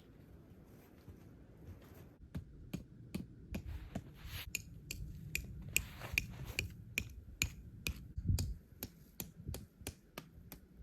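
An irregular run of sharp clicks and light knocks, several a second, starting about two seconds in, over a faint low rumble.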